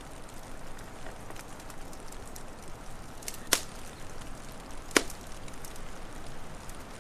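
Wood fire crackling over a steady soft hiss, with small scattered ticks and two loud, sharp pops about a second and a half apart past the middle.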